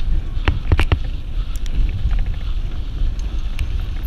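Wind buffeting the microphone on a fast downhill run, over a steady low rumble of the ride, with sharp rattling knocks from bumps in the course, two strong ones within the first second.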